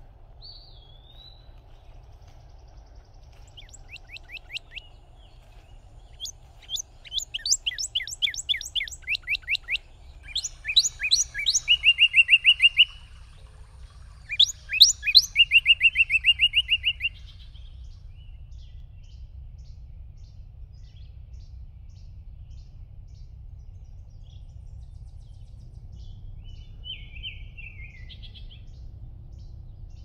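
A songbird singing in spring woodland: several phrases of fast repeated notes, each louder than the one before, then the song stops and a single short call comes near the end. A faint low steady rumble lies underneath.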